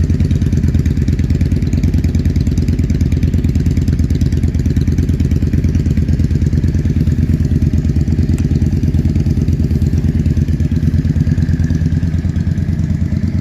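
Yamaha Drag Star 400's V-twin engine running steadily at idle, with an even, pulsing exhaust note.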